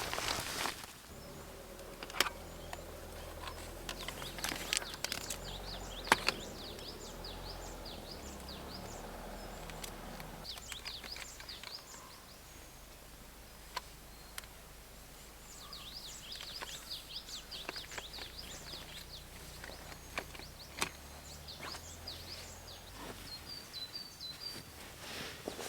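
Wild songbirds singing in runs of quick, repeated high chirps, with a few sharp knocks and clicks from gear being handled. A low steady hum sits underneath and fades out near the end.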